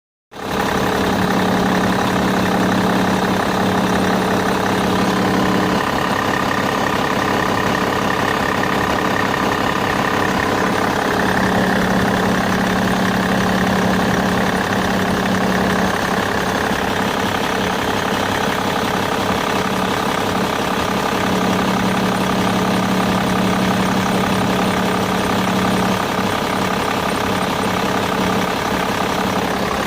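BMW E61 5 Series Touring engine idling steadily with a strange noise that the owner finds abnormal. A low hum swells in three times, for about five seconds each time.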